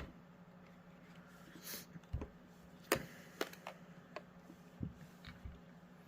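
Scattered sharp plastic clicks and snaps as a Theragun's panel is pried with a screwdriver and its retaining tabs pop loose, with a short scrape about a second and a half in and the loudest snap about three seconds in.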